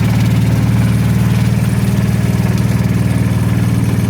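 An engine idling steadily, with an even low rumble.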